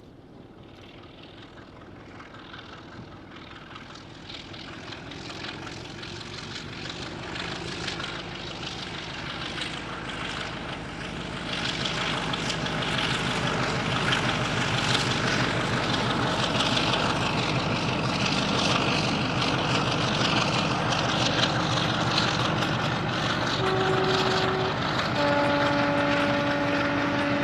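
Diesel locomotive approaching, its engine growing steadily louder for about twelve seconds and then running loud. Near the end it sounds its two-tone horn: a short higher note, then a longer lower one.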